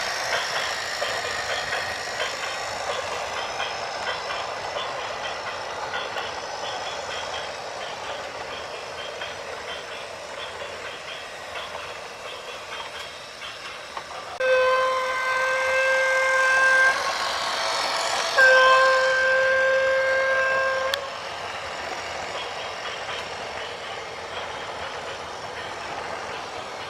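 Train running with a steady rumble and clatter, and its horn sounding two long blasts of two to three seconds each, a little past the middle.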